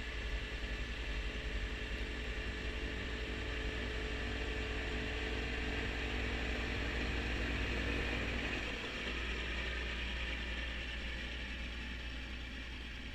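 Kubota B2650 compact tractor's three-cylinder diesel engine running steadily, driving a front-mounted snowblower; it swells slightly midway, then eases.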